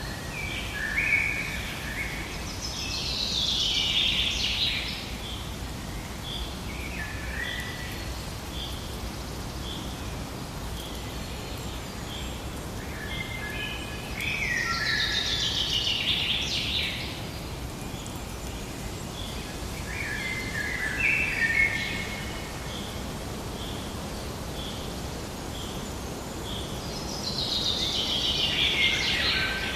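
Forest ambience with birdsong: one bird repeats a short chirp about twice a second, while louder song phrases from other birds come every twelve seconds or so over a steady background hiss.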